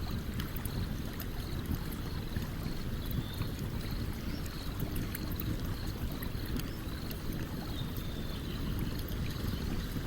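A stream running steadily, with the small sharp crackles of a wood campfire scattered over it.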